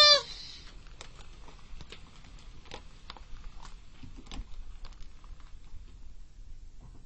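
A brief high, wavering squeal cut off just after the start, then faint irregular clicks and taps, a few a second.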